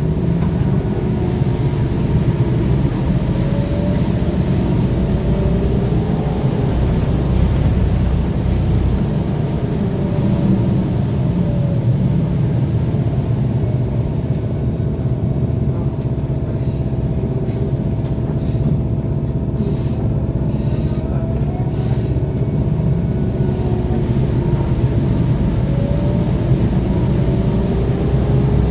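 Inside a BKM-32102 trolleybus under way: steady road rumble, with the whine of the electric traction drive rising and falling in pitch as the bus speeds up and slows. There are a few short clicks and rattles about two-thirds of the way through.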